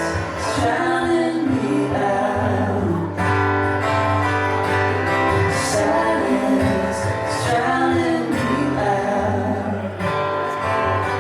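Live guitar music: a melodic passage over a steady bass, during an instrumental stretch of a slow duo song.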